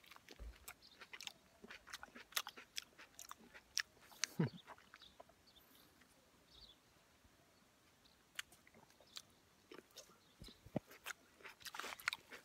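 Close-up chewing and biting of ripe plums: a run of short mouth clicks and smacks, with a lull of a few seconds midway and more again near the end.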